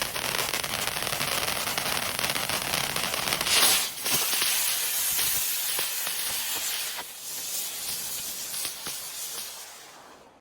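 Ground spinner firework hissing steadily as it spins on the ground, with scattered sharp crackles. It surges louder a little over a third of the way through and dies away near the end.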